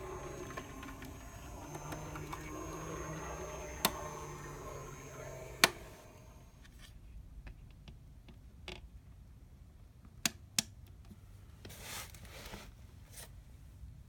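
HO-scale brass model streetcar, fitted with a Faulhaber coreless motor, running on its track with a faint motor whine and wheel noise, with two sharp clicks. It goes quiet about six seconds in, leaving a few scattered clicks and a short rustle.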